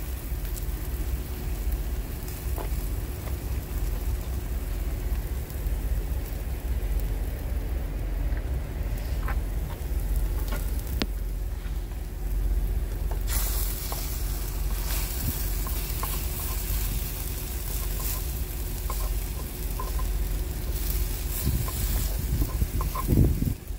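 Liquid egg and shredded hash browns sizzling in butter in a frying pan on a portable camp stove, over a low steady rumble. Near the end a slotted spatula is worked through the pan.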